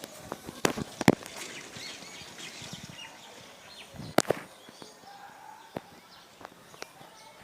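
Birds chirping faintly and intermittently, with a few sharp knocks about a second in and again about four seconds in.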